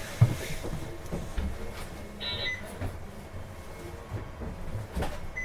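Inside a PKG-LV234N2 city bus standing at a stop, its diesel engine idling low. A sharp click comes about a quarter second in, and a short electronic beep a little after two seconds.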